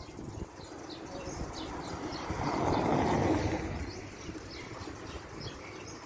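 Small birds chirping over and over, with a broad swell of noise that builds to a peak about three seconds in and then fades, like a vehicle passing.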